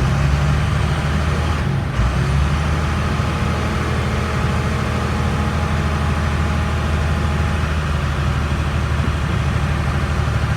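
International DT466 inline-six diesel engine idling steadily, with a brief knock about two seconds in.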